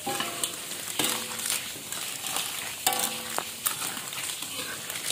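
Lala clams cooking in a thick chilli sambal in a wok, sizzling steadily, with scattered clicks and scrapes of a spatula stirring the shells.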